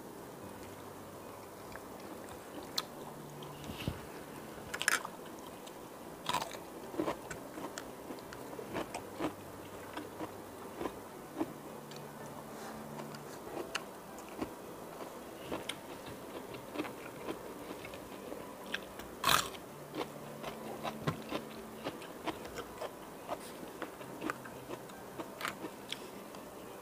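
Close-miked eating: biting into and chewing grilled chicken, then spoonfuls of rice and creamy pasta, heard as many irregular wet clicks and mouth smacks, with two louder smacks about five seconds in and again about nineteen seconds in. Now and then a spoon touches the plate.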